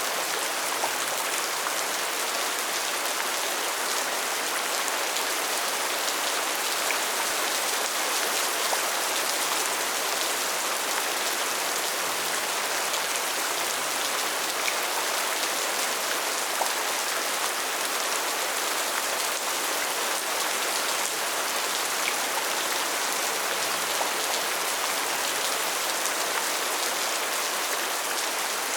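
Steady rain falling: a dense, even hiss with a few distinct drop ticks now and then.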